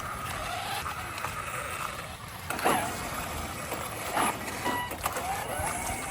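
Electric motor of a 1:8 RC buggy running, its whine swinging slightly up and down in pitch, with a couple of short knocks, over a steady hiss.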